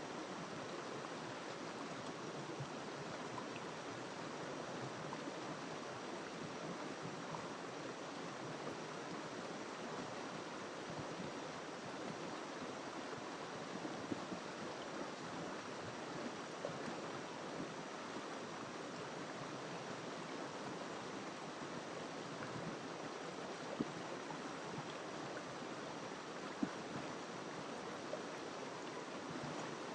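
Small river flowing over rocks: a steady rushing and burbling, with a few brief louder splashes.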